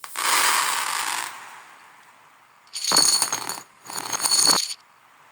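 Glass marbles rolling and clinking along a marble run, played in reverse: a rush of rolling noise, then two ringing rattles of about a second each.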